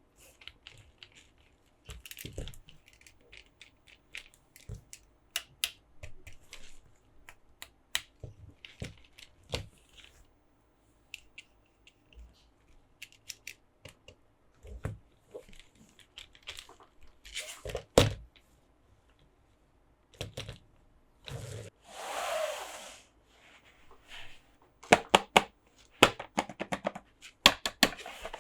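Toy packaging and plastic toy parts being handled during an unboxing: scattered clicks and taps, a louder knock about 18 seconds in, about a second of tearing or crinkling about 22 seconds in, and a quick run of clicks near the end.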